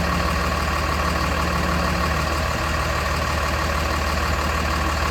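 School bus engine idling steadily with the chassis air conditioning running on its new compressor. A low hum fades out a little over two seconds in.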